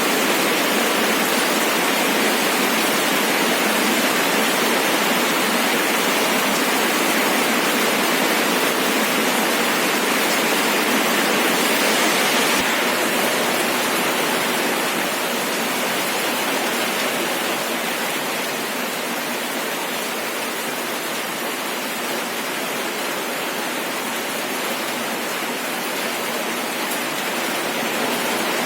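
Rain falling steadily, a dense even hiss with no separate drops standing out. It grows slightly quieter about halfway through.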